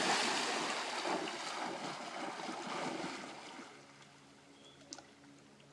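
A dog splashing into river water: a loud, rushing splash that fades away over about three seconds. Faint steady musical tones come in near the end.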